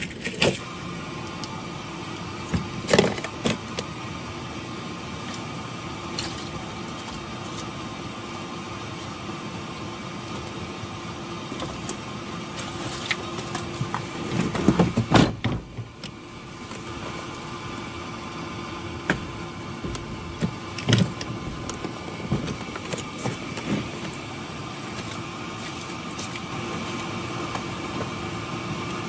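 Car engine running at a standstill, a steady hum, with a few sharp knocks and rustles scattered through it, the loudest cluster about halfway.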